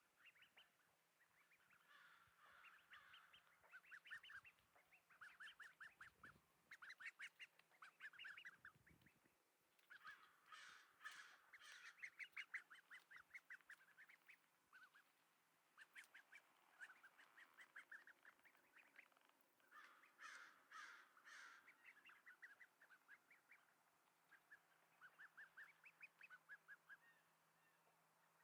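A duckling giving faint, rapid runs of short quack-like calls, many to the second, in bouts of one to two seconds with short pauses between; its quack is still developing.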